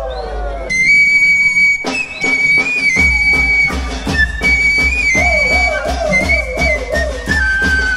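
Amazonian folk dance music: a high flute melody with long held notes, joined about three seconds in by a steady drum beat, with a warbling whistle in the middle.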